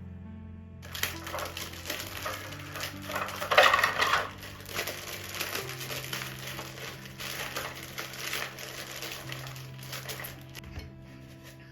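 Dry crunching and crinkling as something brittle is crushed, starting about a second in and loudest around four seconds, over soft background music.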